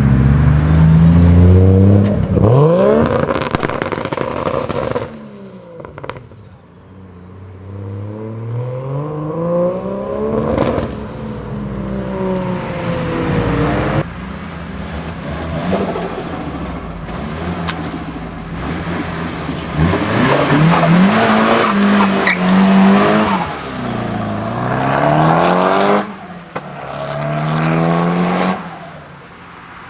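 Modified Nissan Silvia engines revving hard, the pitch climbing and dropping repeatedly as the cars are driven, in several short clips that cut from one to the next.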